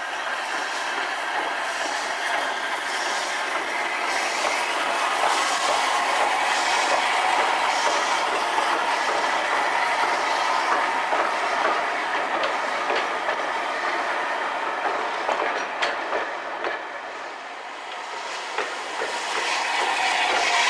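Passenger coaches behind the LMS Black 5 two-cylinder 4-6-0 steam locomotive 45407 rolling past at low speed, their wheels clicking over the rail joints at an even rhythm. The sound fades a little about three-quarters of the way through and grows louder again near the end.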